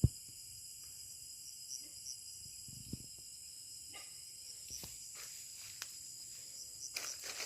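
Night insect chorus: crickets trilling steadily in several high-pitched layers. A sharp click right at the start, a few soft knocks, and rustling near the end.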